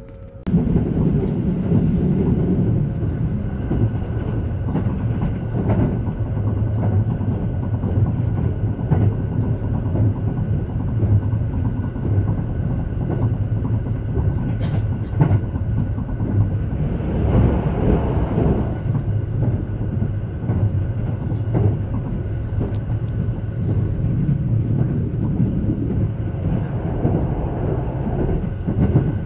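Haruka airport express train running along the line: a steady low rumble of wheels on track from inside the carriage, with a faint steady whine above it. It begins abruptly about half a second in and swells louder twice, around the middle and near the end.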